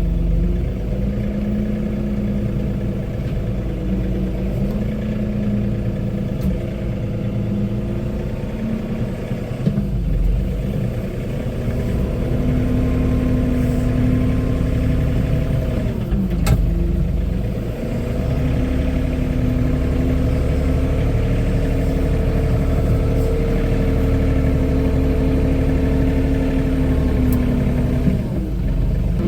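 John Deere compact tractor's diesel engine running while working a grapple, its pitch dipping and recovering a few times as it takes load. There is a sharp knock about halfway through.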